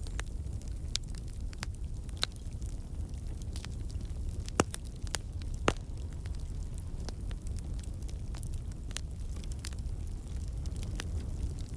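Wood campfire burning: a steady low rumble of flame with scattered sharp crackles and pops from the burning logs, two louder pops around the middle.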